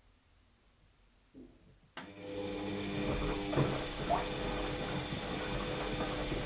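Washing machine quiet in a pause of its cycle, then about two seconds in a sharp click and its motor starts the drum turning, running steadily with a hum and whine and a couple of knocks soon after.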